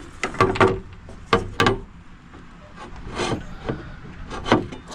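Wooden boards being handled and set against each other: a series of sharp, irregular knocks with some scraping in between.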